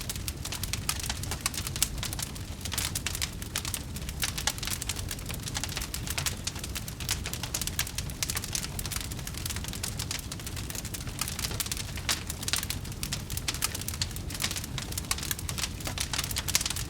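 Wood fire crackling, with a dense, continuous stream of small pops and snaps over a steady low rumble.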